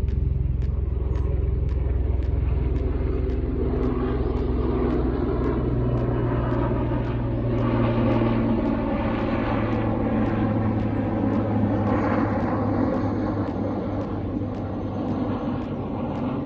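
Loud, continuous engine rumble, with several steady low tones that shift in pitch partway through; it swells around the middle and eases a little near the end.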